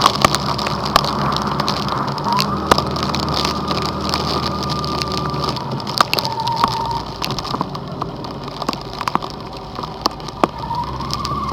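Heavy rain pelting a vehicle, with many sharp drop hits scattered through it, over a steady engine hum.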